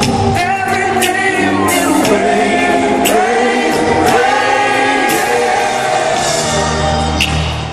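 Live concert music: a male voice sings a slow ballad over band accompaniment, with a deep bass note coming in near the end.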